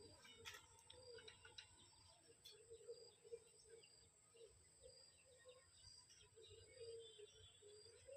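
Faint, quiet aviary with soft low coos of spotted doves, a short note every second or so, and a few faint chirps and ticks.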